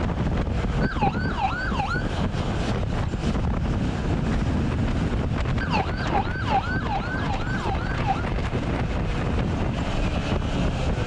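Police siren sounded in short bursts of quick rising-and-falling yelps, a brief burst about a second in and a longer one around six seconds in, over a steady rush of wind on the microphone.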